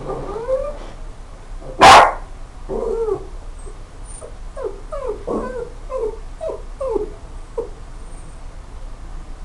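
A dog whining and yipping in a string of short, pitch-bending calls, with one loud sharp sound about two seconds in.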